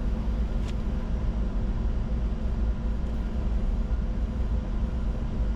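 Steady low rumble of airflow and engine noise inside the cockpit of a Bombardier Challenger 605 business jet on approach, with a faint steady hum above it.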